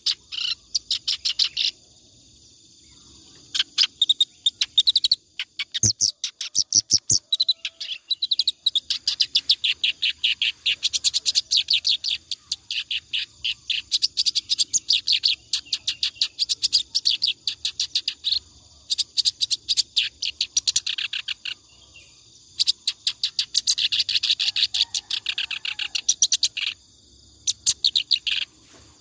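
Kerak basi (reed warbler) singing continuously in long runs of fast, high-pitched repeated notes, each run lasting one to several seconds, with short pauses between runs.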